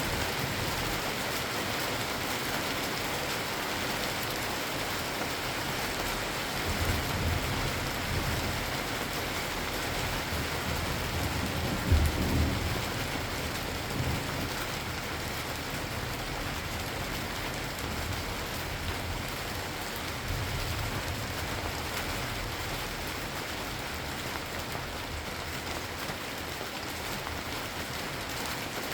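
Steady rain falling, with low rumbles of thunder: one about seven seconds in, a sudden louder one about twelve seconds in, and a weaker roll around twenty seconds.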